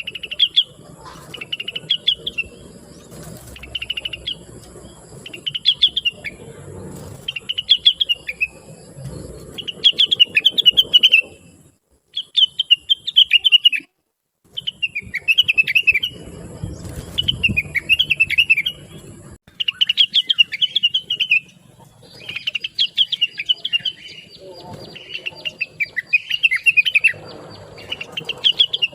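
Rengganis (cucak wilis) leafbird singing busily in short, rapid chattering phrases that come every second or two, with a short pause about twelve seconds in.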